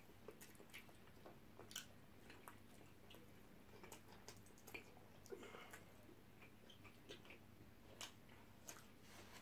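Faint chewing and mouth sounds of people eating shawarma wraps: scattered soft clicks and smacks over a low steady hum.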